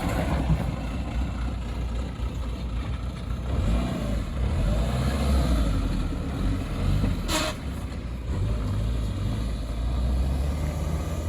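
Pinzgauer 710 K 4x4's diesel engine running under way, its pitch rising and falling as it drives, with a short sharp hiss about seven seconds in.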